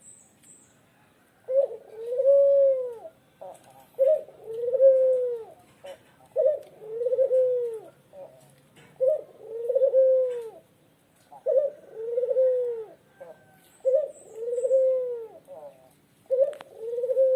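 A Lombok puter dove, a tame collared dove, cooing repeatedly: seven calls about every two and a half seconds, starting about a second and a half in, each a short sharp note followed by a longer coo that rises and falls in pitch.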